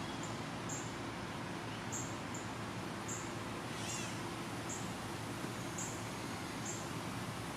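Outdoor bird calls: a short, high note repeats about once a second, and about halfway through there is one brief catlike call with several overtones that rise and fall, over a steady low hum.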